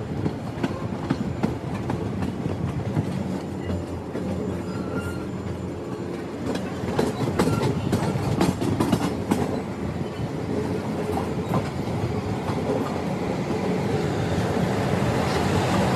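Passenger train running over the tracks, heard from aboard: a steady rumble of the wheels with irregular clicks and clacks as they cross rail joints and points, growing a little louder near the end.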